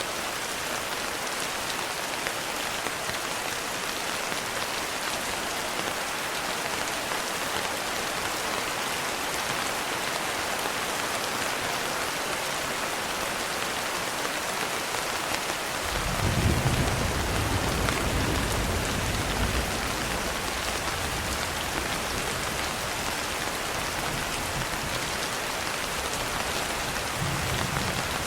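Steady rain falling, with a low rumble of thunder that starts about halfway through, swells and fades over a few seconds. A fainter rumble follows near the end.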